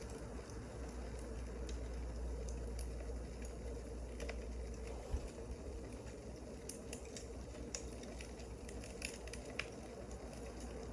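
Wood fire crackling, with irregular sharp pops over a steady low rumble, and one louder thump about five seconds in.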